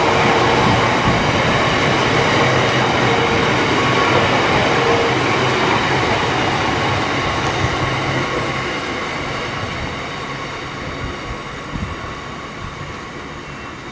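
Biomass hopper wagons of a freight train rolling past, their wheels rumbling steadily on the rails. The noise fades from about eight seconds in as the tail of the train draws away, with a few knocks near the end.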